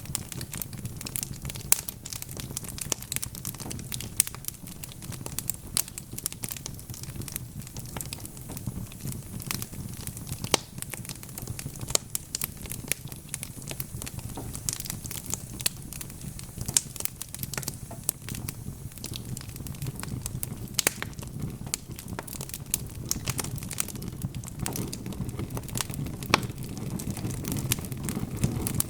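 Wood fire crackling and popping with many small, irregular snaps over a steady low rumble of flames.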